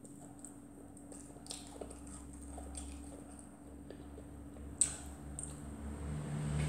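A person chewing and smacking her lips while eating fried fish with her fingers, with scattered small mouth clicks and one sharper click about two-thirds of the way through. A low hum rises near the end.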